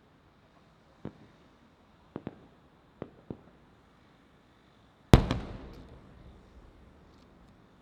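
Aerial firework shells bursting: five sharp bangs in the first three and a half seconds, two of them close together, then one much louder burst a little after five seconds whose boom rolls on and fades over about two seconds.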